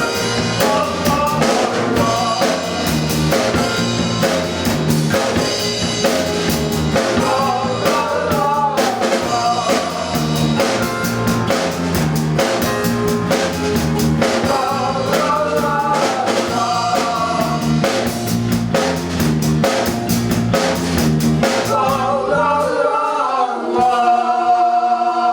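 A live rock band with a drum kit, bass and guitar plays with a steady beat and a sung or played melody on top. About 22 seconds in the drums and bass drop out, leaving held notes.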